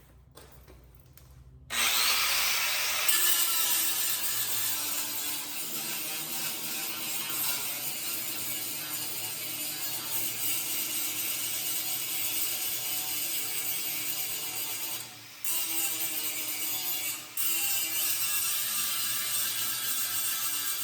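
Welder arc crackling steadily on the truck bed's sheet metal, starting abruptly about two seconds in and cutting out briefly twice near the end as the trigger is released and pulled again. It is a patch piece being welded into the bedside.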